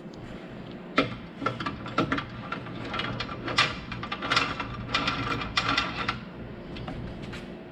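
Irregular metallic clicks, clinks and rattles of hand tools and hardware being handled while mounting a miter saw on its stand.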